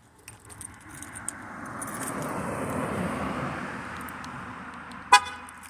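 A vehicle passes on the road, its tyre and engine noise swelling and fading over about four seconds. Then a single short, loud horn chirp near the end as the car is locked with the remote.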